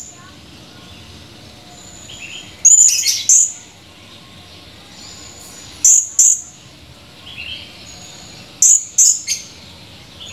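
Serindit (blue-crowned hanging parrot) calling: sharp, very high-pitched notes in quick clusters of two or three, repeated every few seconds, with fainter notes between them.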